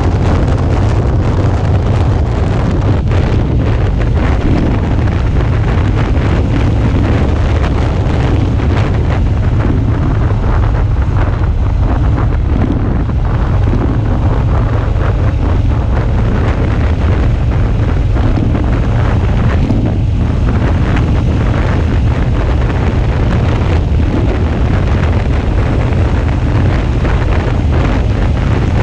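Wind buffeting the microphone of a motorcycle-mounted action camera at riding speed, over the steady running of a Suzuki V-Strom 650's V-twin engine.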